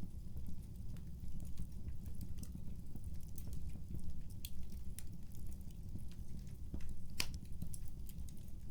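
Wood fire crackling: a steady low rumble of burning with scattered small pops, and one sharper pop about seven seconds in.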